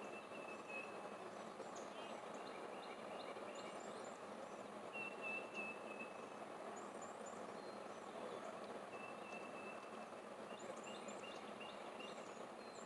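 Wild birds singing over a steady outdoor rushing background: a thin whistled note about a second long comes three times, around the start, midway and near the end, among quick high chirps.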